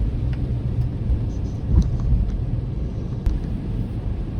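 Steady low road and engine rumble heard from inside a moving car, with a few faint clicks and a brief low thump a little under two seconds in.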